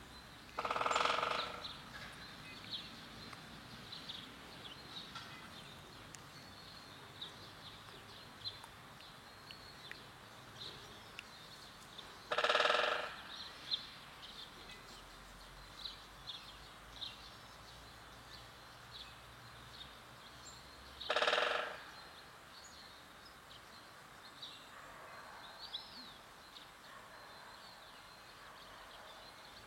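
Birds calling outdoors: three loud calls, each about a second long, come roughly ten seconds apart, over many faint high chirps.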